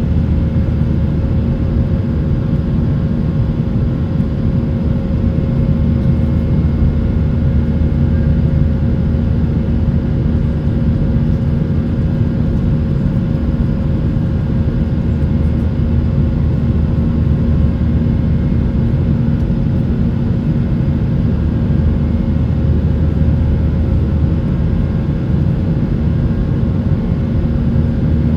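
Steady cabin noise of a Boeing 737-800 under way, a loud even drone of its CFM56 jet engines and rushing air, with a few constant hums running through it.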